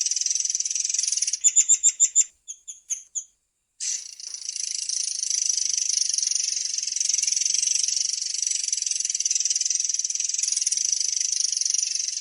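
Murai air songbird giving a long, fast, continuous rolling trill. About a second and a half in, the trill breaks into a run of about six loud separate notes and a few fainter ones, cuts off briefly, then resumes just before four seconds in.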